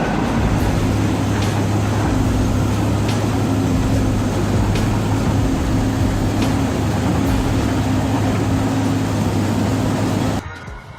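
Heavy vehicle engine running steadily under load with a constant low hum, cut off abruptly near the end.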